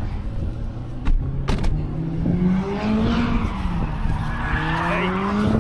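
Go-kart engines running on a track, their note rising and falling several times as the karts speed up and ease off. Two sharp knocks come about a second in.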